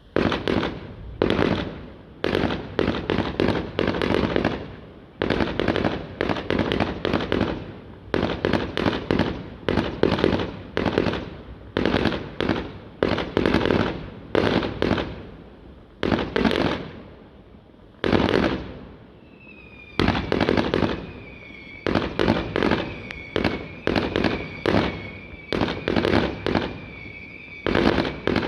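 Firework barrage going off: rapid volleys of sharp bangs, many a second, in bursts of a second or two with short gaps between. About twenty seconds in, a steady high whistle joins and keeps sounding under the bangs.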